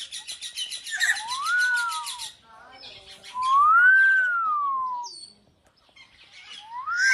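Hill myna calling: a fast rattling chatter of about eight pulses a second, then three long whistles that rise and fall in pitch.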